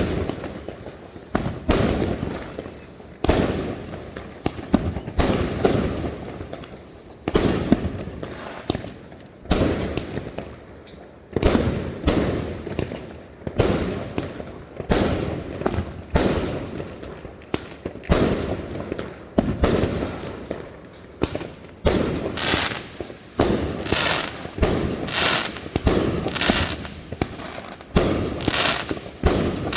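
Fireworks going off in a continuous string of sharp bangs. Over the first seven seconds high whistles repeatedly fall in pitch between the bangs, and the bangs come faster, about two a second, in the last several seconds.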